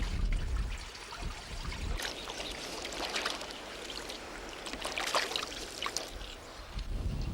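River water splashing and trickling, with a low wind rumble on the microphone at the start and again near the end.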